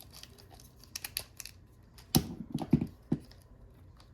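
Plastic parts of a Transformers Sandstorm action figure clicking and knocking as they are folded and slid into place by hand: scattered sharp clicks about a second in, then a cluster of clicks between two and three seconds in.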